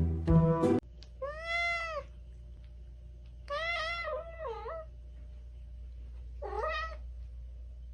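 A domestic cat meowing three times: a rising-then-falling call, a longer call with wavering pitch, then a short one. A low steady hum runs underneath.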